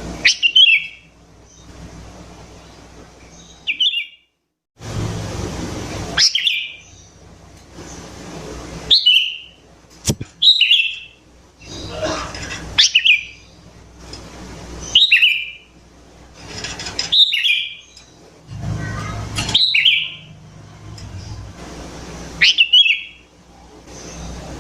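Sooty-headed bulbul (kutilang) giving a short, sharp call over and over, about once every two seconds, each call a quick downward sweep ending in a brief chattering burst, over a steady background hiss.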